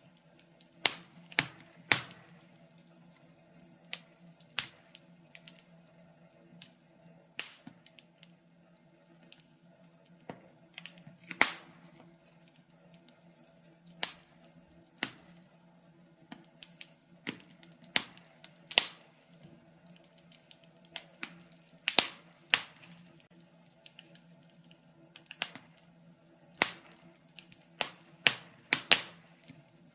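Wood fire crackling in a fireplace: irregular sharp pops and snaps, several a second at times, over a faint steady low hum.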